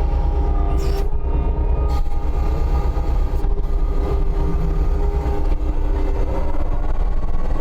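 Case TV450 compact track loader's diesel engine running hard with a steady hydraulic whine as it travels carrying a log in its grapple, with a couple of brief clanks about one and two seconds in.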